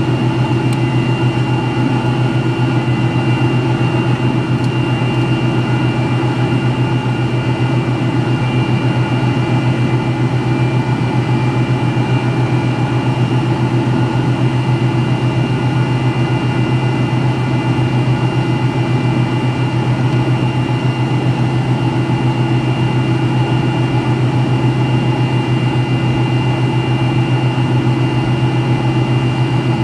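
MD-83's tail-mounted Pratt & Whitney JT8D turbofans running at high thrust, heard loud inside the rear cabin as a steady low drone with several steady whining tones above it.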